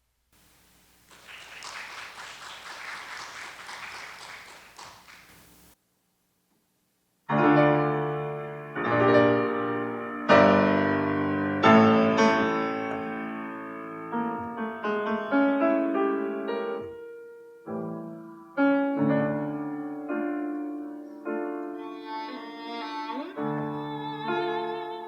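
A short spell of clapping, then after a pause a piano begins a new piece with loud chords, each struck and left to ring out.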